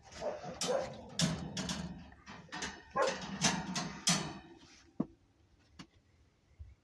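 Dog making a run of short barks and whimpers for about four seconds, then going quiet apart from a couple of faint clicks.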